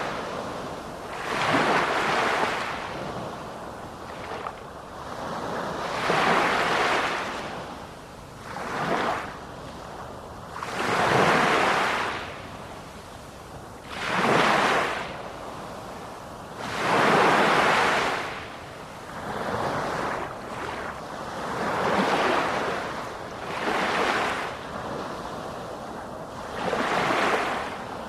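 Ocean surf: waves washing in one after another, each surge swelling and falling away, about every two to four seconds.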